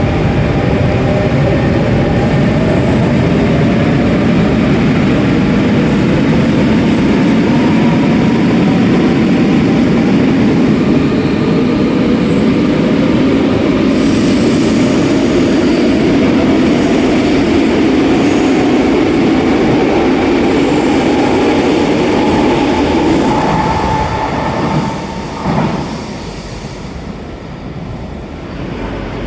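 RER A double-deck electric train running through the station: a loud, steady rumble of wheels on rail with a hum of electric traction motors, dying down about 25 seconds in after a short clunk.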